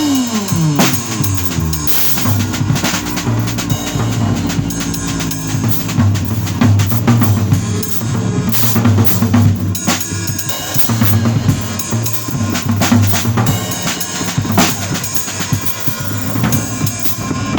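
Bass and drum kit playing an improvised duet. The bass slides down in pitch at the start, then holds low notes, under steady drum hits with snare, rimshots and kick drum.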